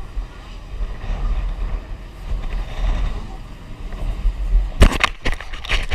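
Wind buffeting the microphone of a GoPro action camera as a low, unsteady rumble. Near the end comes a quick run of sharp knocks and rattles.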